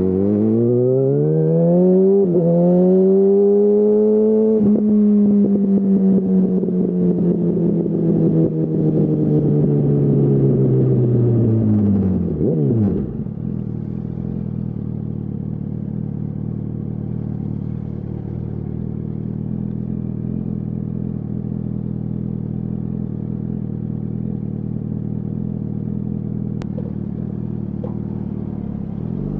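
2008 Yamaha R1's inline-four engine through a Termignoni full exhaust, revving up over the first couple of seconds, holding, then easing off as the revs fall slowly and drop away sharply about twelve seconds in. It then settles into a steady idle for the rest.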